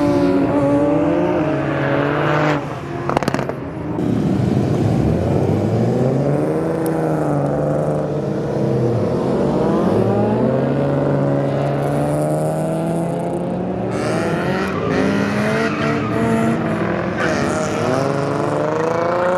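Exhaust of a BMW G20 330i's 2.0-litre turbocharged B48 four-cylinder under hard acceleration. The engine note climbs through the revs and drops at each gear change several times, with a sharp crack about three seconds in.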